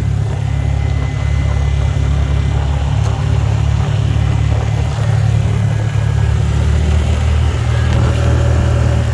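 Car driving: a steady low hum of engine and road noise.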